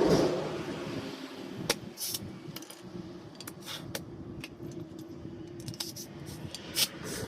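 A passing vehicle fades out in the first second, leaving a steady low hum and a scatter of sharp metallic clinks and taps, like hand tools being handled, two of them louder than the rest.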